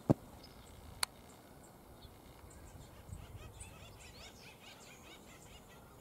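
Faint open-air background with distant birds giving short, high chirps through the middle. Two sharp clicks come in the first second.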